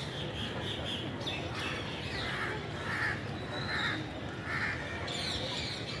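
Birds calling: four harsh calls a little under a second apart in the middle, with higher, thinner chirps before them, over a steady background noise.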